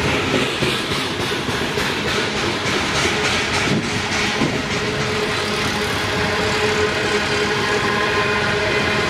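Loaded freight cars (gondolas, covered hoppers and tank cars) rolling past close by, their steel wheels clacking over the rail joints. A steady whine comes in about halfway through and holds.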